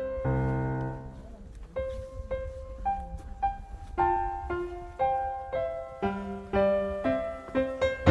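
Background piano music: a slow melody of single notes, each struck and fading, with a softer lull about a second in before the notes pick up again.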